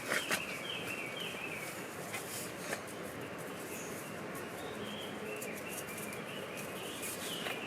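Birds singing in woodland: short, repeated, chirping phrases over a steady background of outdoor noise, with a few faint clicks.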